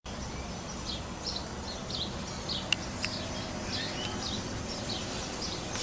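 Small birds chirping repeatedly over a steady low background noise, with two sharp clicks about three seconds in.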